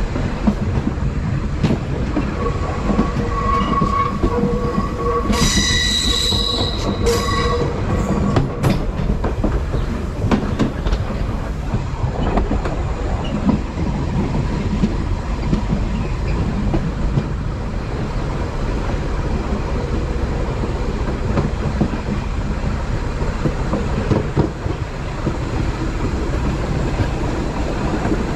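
Passenger train running along the track, heard from the driver's cab: a steady rumble with rail clicks. About three seconds in, the wheels begin to squeal with a high ringing tone that is loudest from about five to seven and a half seconds, then dies away.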